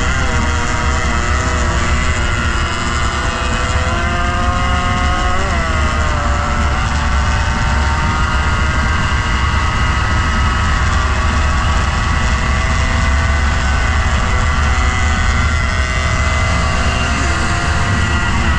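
Motorcycle engine running at speed under heavy wind rumble on the microphone. The engine note climbs and then drops about five seconds in, and shifts again briefly near the end.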